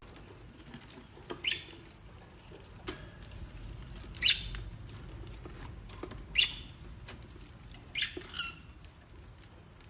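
A parrot giving short, high squawks: five quick calls that drop in pitch, spaced a couple of seconds apart, the last two close together.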